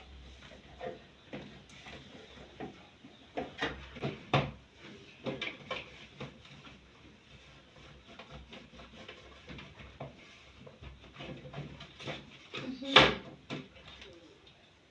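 Scattered light knocks, clicks and scrapes of fridge parts being handled during cleaning, with one louder knock about thirteen seconds in.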